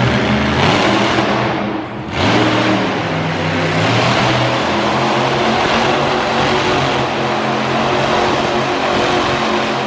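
Monster truck engine revving hard, a loud, steady roar. It briefly drops off about two seconds in, then picks up again.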